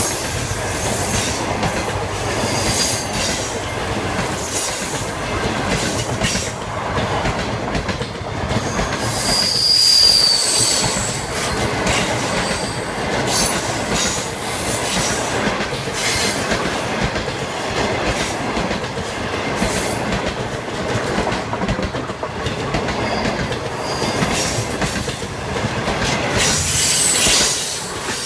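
Passenger train coaches rolling past close by: steady rumble and clatter of steel wheels on the rails with repeated sharp clicks, and a brief high wheel squeal about ten seconds in. The sound drops away near the end as the last coach goes by.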